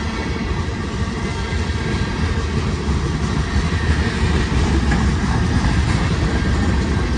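Freight train rolling past close by, a loud, steady low rumble of locomotives and railcars on the track.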